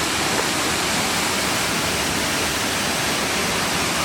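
Waterfall pouring down onto rock and pool: a steady, loud rush of falling water.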